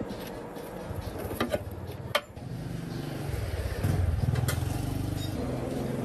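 Tractor engine running, louder from about halfway, after a few sharp clicks or knocks.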